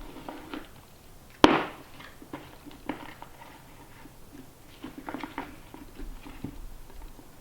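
One sharp, loud bang about one and a half seconds in, among lighter knocks and clicks of work.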